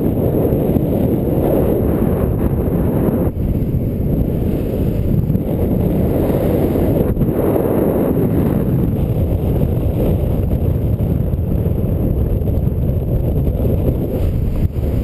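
Strong wind blasting across the microphone: a loud, steady low rumble that dips briefly about three and seven seconds in.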